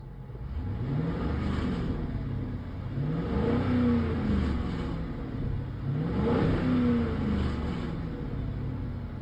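2006 Chrysler 300C's 5.7 HEMI V8 revved three times, each rev rising in pitch and then falling back to idle.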